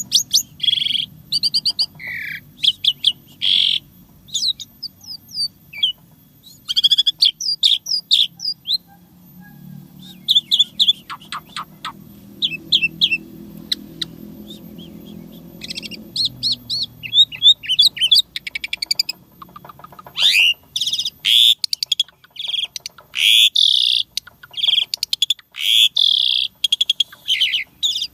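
Asian pied starling (jalak suren) singing a long, varied song of whistles, chirps and sweeping notes. It goes sparser in the middle, then breaks into a dense, rapid run of loud notes in the last third.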